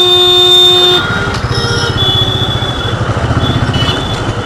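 Vehicle horn sounding one steady note that cuts off about a second in, followed by a motorcycle engine running at low speed in traffic, with a brief high squeak around two seconds in.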